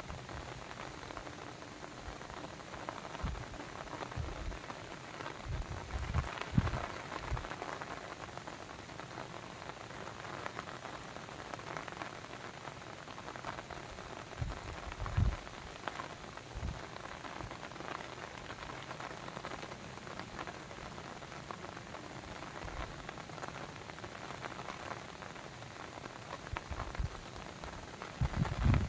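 Steady patter and rush of water with many small drips and irregular low plops, the loudest about six and fifteen seconds in and near the end.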